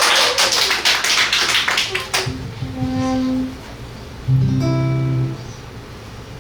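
Audience applause that dies away about two seconds in, then a seven-string acoustic guitar plays a few single sustained notes, a deep bass note about four seconds in the loudest, as the piece begins.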